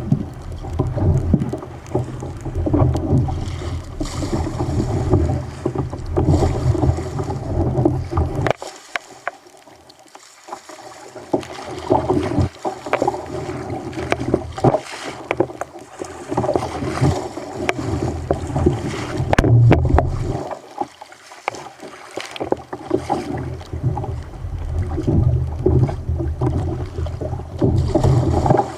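Wind gusting on the microphone as a deep rumble that drops out suddenly twice, over water sloshing and knocking against a fishing kayak's hull on a rough sea.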